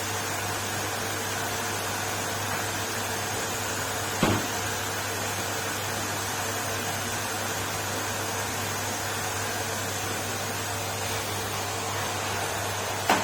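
Numatic Henry canister vacuum cleaner running steadily with an even hum. A knock sounds about four seconds in and another at the very end.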